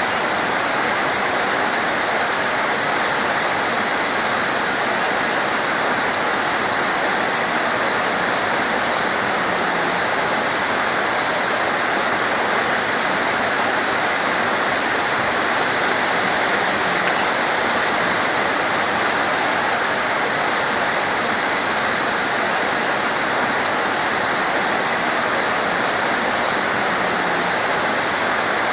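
Torrential rain pouring down in a dense, steady hiss, with two single sharp ticks of drops striking something close by, about six seconds in and again about four fifths of the way through.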